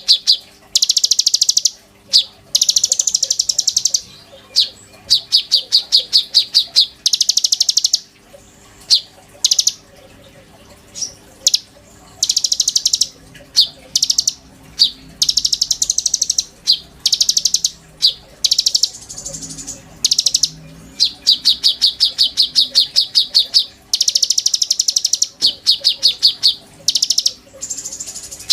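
A konin songbird singing gacor, that is persistently and loudly: rapid high trills of fast repeated ticking notes, phrase after phrase with short gaps.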